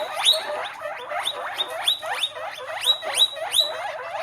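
Guinea pig wheeking: a fast run of shrill squeals, each rising sharply in pitch, about three a second.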